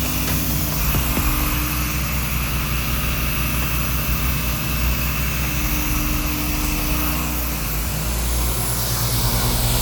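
Gas-engine pressure washer running steadily under load, with a steady hiss over its low engine hum.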